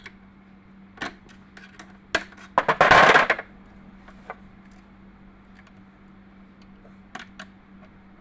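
Small metal clinks and taps of tools against sewing-machine parts, with a louder clattering rattle about three seconds in and a few light ticks later, over a faint steady hum.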